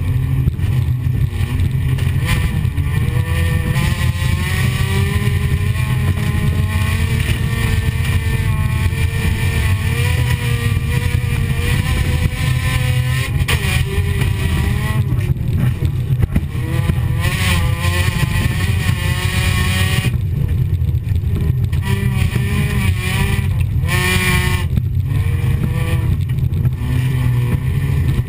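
Folkrace car's engine heard from inside the cockpit under racing load, its pitch repeatedly climbing and dropping as it is revved and eased off, over a heavy low rumble.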